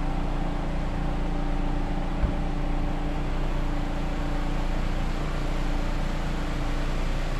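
Steady hum of a car engine running, with a faint low thump about two seconds in.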